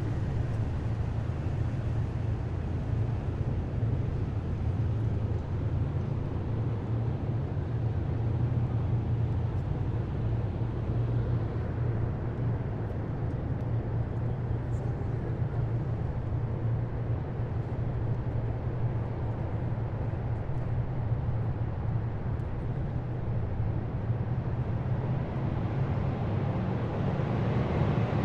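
Column of heavy military vehicles running, a steady deep engine rumble that neither swells nor fades.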